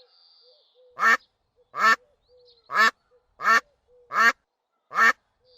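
A duck quacking repeatedly: six loud quacks, each a little under a second apart.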